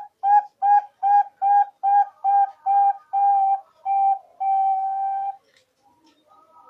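Zebra dove (perkutut) singing: a run of about ten clear cooing notes at one steady pitch, short and quick at first and growing longer, the last held nearly a second, ending about five seconds in.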